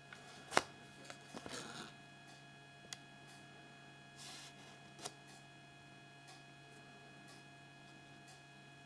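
Small plastic toys being handled: a few sharp clicks, the loudest about half a second in, and brief light rustling, over a steady electrical hum.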